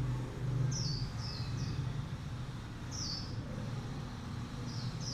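A small bird chirping in the background: short, quick down-slurred notes in twos and threes, repeated every second or two, over a low steady hum.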